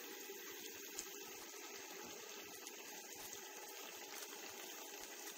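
Chicken and spice masala frying in oil in an open pan, a faint steady sizzle as the masala roasts. One light click about a second in.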